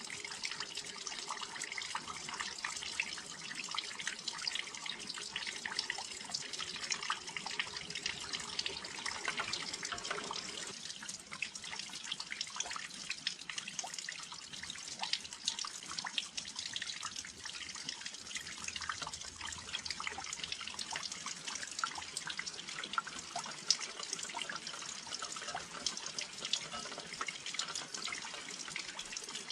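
Steady rain, with many close drops landing separately on a windowsill. A low hum underneath stops about ten seconds in.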